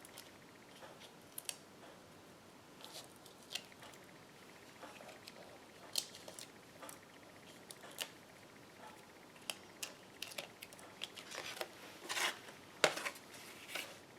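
Scattered small clicks and short rustles of paper handling as foam adhesive dimensionals are peeled from their sheet and pressed onto the back of a cardstock card, more frequent in the last few seconds.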